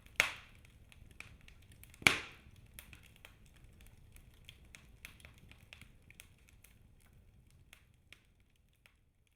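Birch-log wood fire crackling in a fireplace: two loud snaps, one just after the start and one about two seconds in, then scattered small crackles that thin out and fade away near the end.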